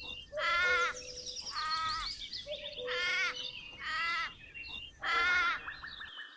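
A series of short, harsh animal calls repeated about once a second, six in all, with faint high chirps of birds between them.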